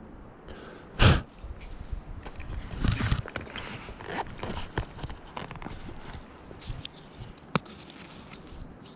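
Close handling noise: rustling and many small clicks, with one sharp, loud burst about a second in.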